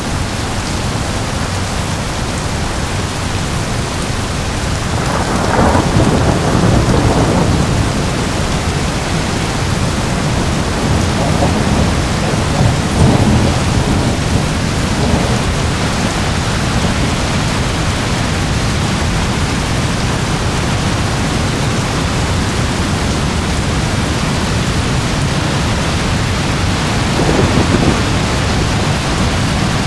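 Steady heavy rain with rolling thunder: a long rumble swells about five seconds in and lasts a few seconds, further rumbles follow around the middle, and a short one comes near the end.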